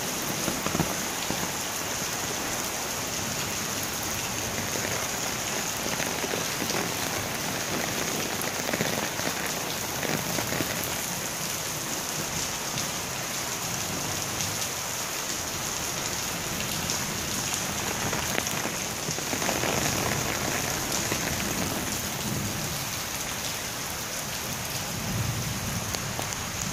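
Heavy downpour: steady rain pouring onto a stone-paved street and the old stone buildings around it.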